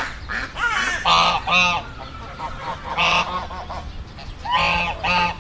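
Duck quacking: loud, harsh calls that come in pairs, three pairs in all.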